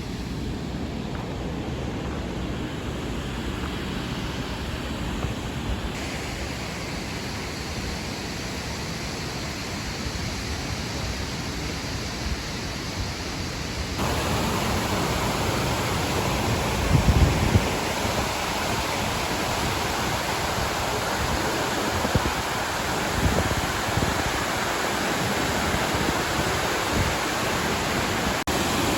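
Waterfall rushing: a steady noise of falling water that becomes louder about halfway through, with a few low gusts of wind on the microphone.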